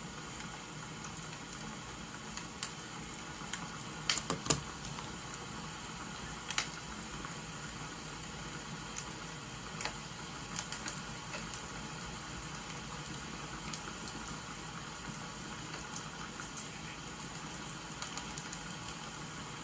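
Steady crackling-fire and rain ambience, a constant hiss dotted with light ticks and crackles, with a short cluster of sharper clicks or taps about four seconds in and one more a couple of seconds later.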